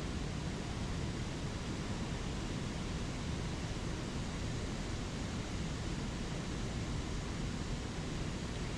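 Spring creek water rushing over small waterfalls: a steady, unbroken rush.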